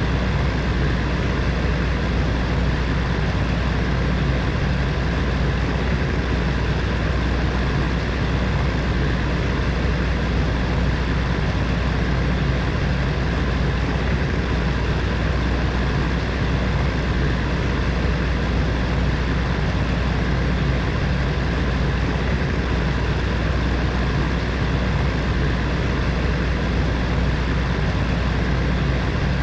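Electric heater fan running steadily, a constant low whir and airflow noise with a faint steady hum.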